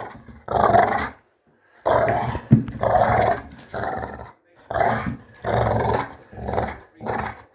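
A pet dog growling in a run of about seven short bursts with brief pauses between them.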